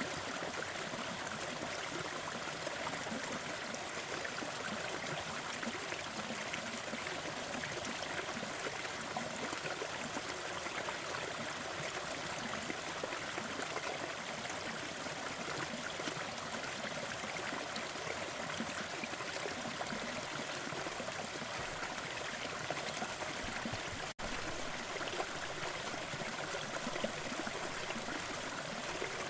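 Waterfall rushing steadily, a dense, even wash of falling water, with the sound cutting out for an instant about 24 seconds in.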